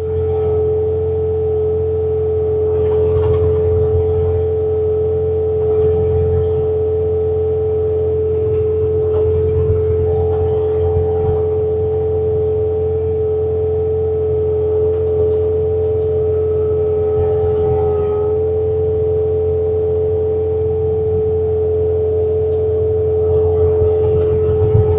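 Bobcat T66 compact track loader's diesel engine running steadily with its snowblower attachment working, a constant low drone with a steady high whine over it.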